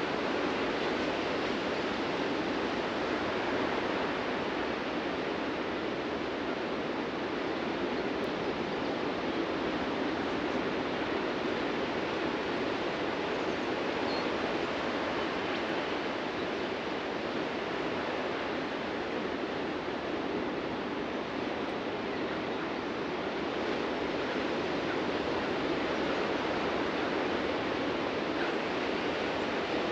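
Ocean surf on a beach: a steady, even wash of noise with no distinct wave surges standing out.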